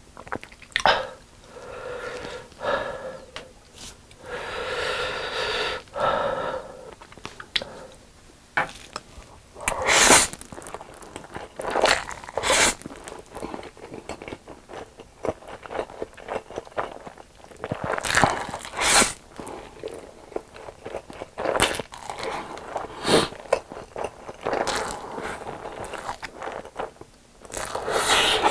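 Close-miked eating sounds: noodles slurped in long draws in the first few seconds, then crisp bites and chewing of Mara Volcano boneless chicken and noodles, with the sharpest crunches about ten seconds in and near the end.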